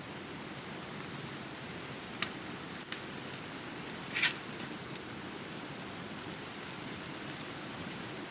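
Steady rushing of water, with three short sharp pops from a campfire's coals, the loudest about four seconds in.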